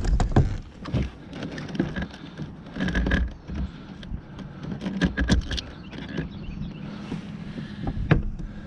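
Irregular knocks and clatter of gear being handled on a fishing kayak, over a low rumble; a faint steady hum comes in about five seconds in.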